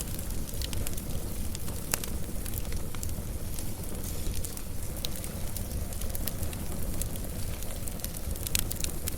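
Wood fire burning steadily with a low rumble, broken by irregular sharp crackles and pops.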